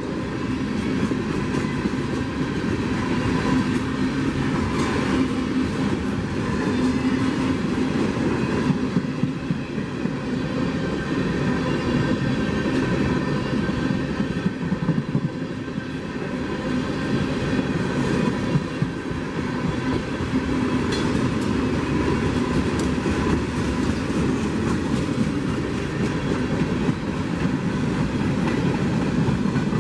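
Freight train rolling past at steady speed: a continuous rumble of railcar wheels on the track, with frequent clicks over the rail.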